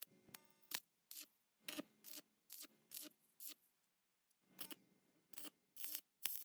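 Faint series of short, sharp clicks and snips from hand-tool work, irregular at about two or three a second, with a pause of about a second midway.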